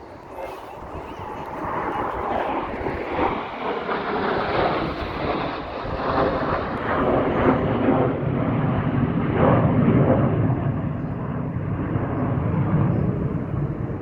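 Airplane flying past overhead: a loud roar builds over the first couple of seconds, peaks through the middle, then its higher part fades toward the end as the plane moves away, leaving a low rumble.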